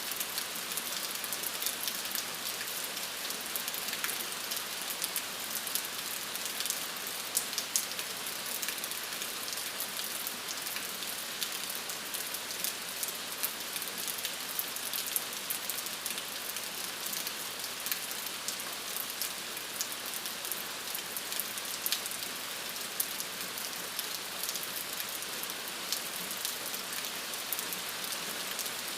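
Steady rain falling, a dense even hiss with many sharp individual drops ticking on a surface.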